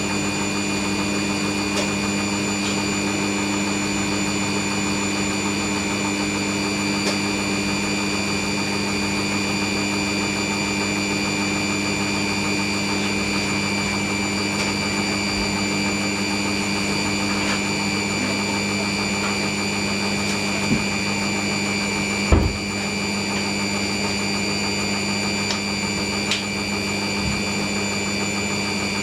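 Hoover NeXtra front-loading washing machine running a steady low-speed spin after draining, with a constant motor whine and hum. There is a single sharp knock about three-quarters of the way through.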